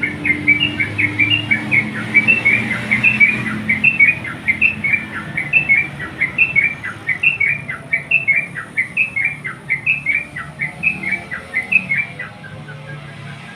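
Sooty-headed bulbul (crucukan) singing vigorously in rapid, repeated short whistled phrases, calling to a rival bird. The song trails off about a second before the end, over a low steady background rumble.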